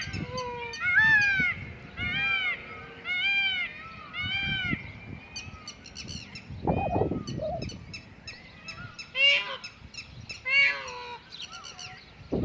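Wild peacocks calling: repeated short, honking, arched calls in quick series, several birds overlapping.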